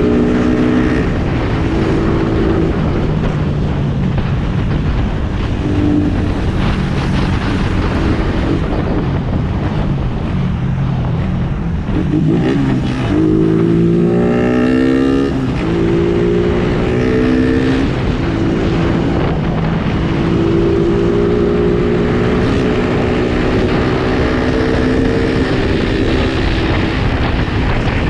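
Suzuki Raider R150 motorcycle engine riding through traffic, its pitch rising and falling with the throttle and gear changes. About halfway through it revs up in a quick series of rising climbs, over steady wind and road noise.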